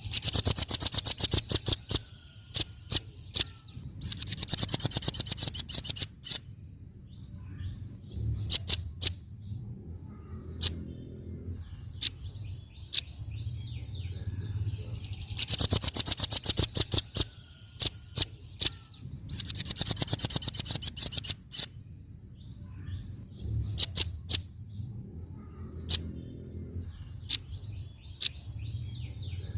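Velvet-fronted nuthatch calling: bursts of very rapid, high, sharp trilled notes lasting about two seconds, separated by single sharp notes and short pauses. The same sequence comes round again about halfway through, as in a looped recording.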